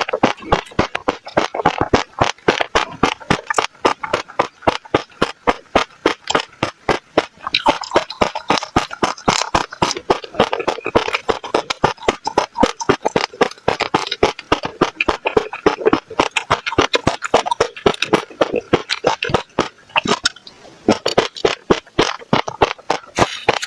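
Close-miked mouth sounds of passion fruit seeds being bitten and crushed: crisp popping crunches, several a second, with a brief pause about twenty seconds in.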